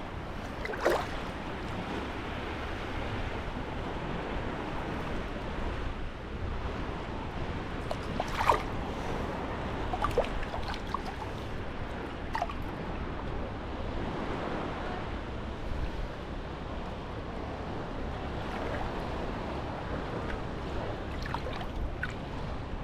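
Sea waves washing onto the beach in a steady surf, with a few brief sharp sounds on top, the loudest about eight seconds in.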